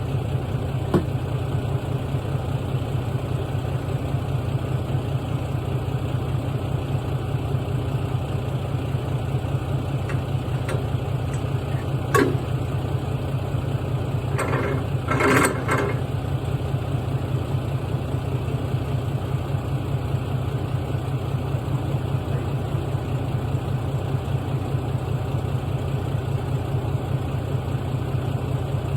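Freightliner log truck's diesel engine idling steadily, with a sharp click about twelve seconds in and a short burst of noise a couple of seconds later.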